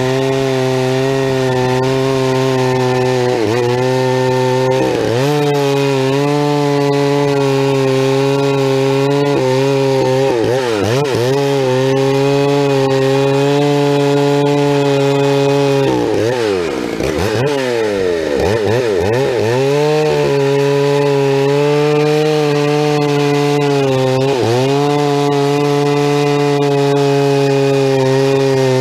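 Two-stroke chainsaw running at full throttle while bucking firewood, its engine note steady and dipping in pitch several times as the chain loads up in the cut, with the longest dip about two thirds of the way in.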